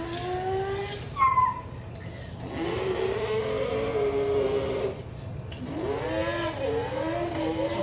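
A child's voice imitating a car: a rising engine hum, a short high screech like squealing tyres about a second in, then a long buzzing engine drone, and near the end a wavering, revving engine sound.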